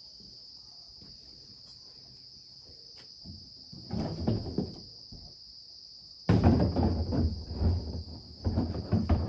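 Crickets chirring in a steady high-pitched drone. Over it come a few faint knocks, then from about six seconds in, louder irregular knocking and clatter of things being handled.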